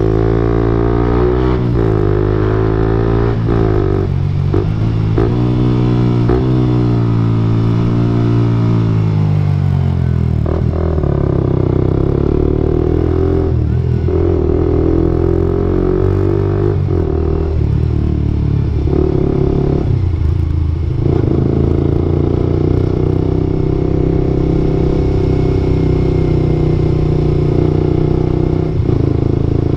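Suzuki GSX-R125 single-cylinder engine running through an aftermarket Akrapovic-style exhaust. Its pitch rises and falls over the first ten seconds, then holds steadier, with a few short clicks along the way.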